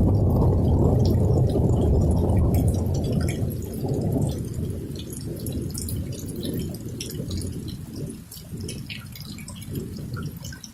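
A long roll of thunder, loud at first and dying away over several seconds, with rain dripping and ticking throughout.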